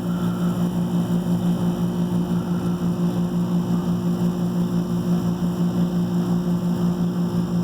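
24-year-old heat pump running with a steady hum.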